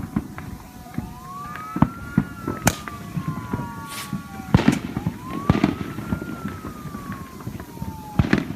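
An emergency-vehicle siren wailing, its pitch rising quickly and falling slowly about every four seconds, over scattered sharp firework pops and bangs.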